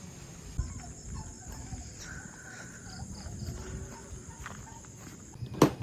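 Scattered short animal calls with a steady high-pitched whine behind them that stops near the end, then one sharp click.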